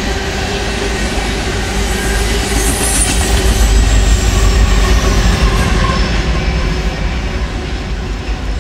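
Freight train cars rolling past close by: a steady rumble of steel wheels on the rails, with a brief high wheel squeal about three seconds in. The sound eases off a little near the end as the last cars go by.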